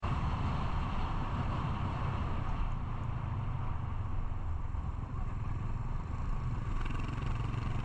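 Motorcycle running steadily on the road, a constant low rumble with road and wind noise.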